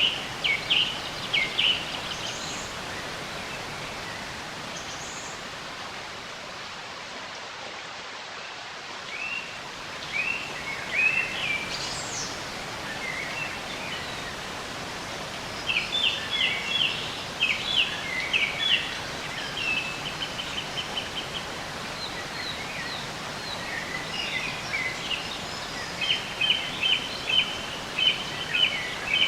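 Songbirds singing, with short chirping phrases and rapid trills coming in bursts of a few seconds with quiet gaps, over a steady even hiss of outdoor background noise.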